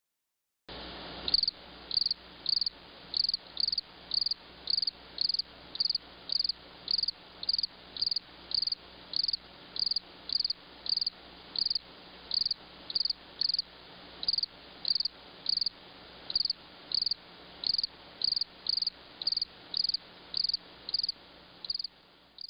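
Cricket chirping in an even, steady rhythm, about three chirps every two seconds, over a faint background hiss. It starts shortly after the beginning.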